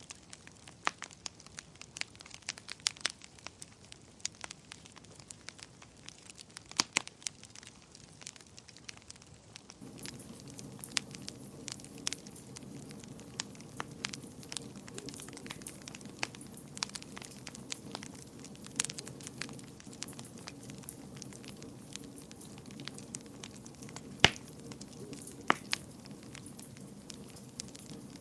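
Wood fire burning in a fireplace, crackling with irregular sharp pops and snaps over a low steady rumble of flame. The rumble is fainter for the first ten seconds or so, and a louder single pop comes a few seconds before the end.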